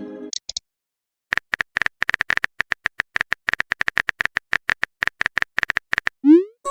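Rapid run of short synthetic phone-keyboard tap clicks, as a chat message is typed, starting about a second in and going on for about five seconds. Near the end comes a short rising swoop, a message-sent sound.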